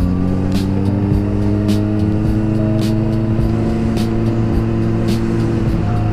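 Honda CBR600RR inline-four with a Yoshimura exhaust, heard while riding, its engine note rising slowly as the bike picks up speed and then holding steady. A faint regular tick comes through about once a second.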